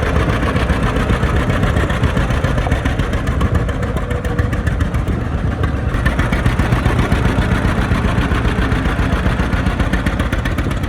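John Deere 60 tractor's two-cylinder engine running steadily at idle, with an even beat of firing pulses.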